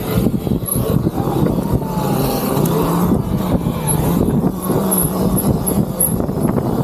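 Electric dirt bike riding over rough ground: a steady low rumble with wind noise, and a faint motor whine that rises and falls.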